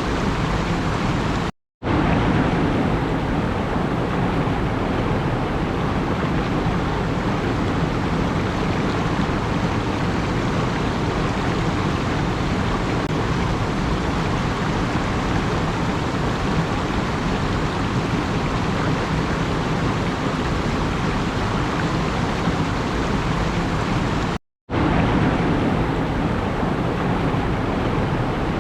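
Steady, even rushing noise that cuts to silence for a fraction of a second about two seconds in and again near the end.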